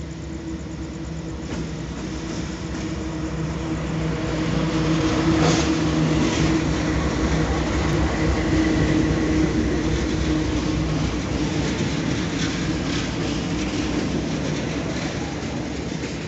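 Freight train's diesel-electric locomotives approaching and passing close by, their engine drone swelling to a peak about five seconds in. The empty log flatcars behind them then rumble past, with the wheels clacking over the rails.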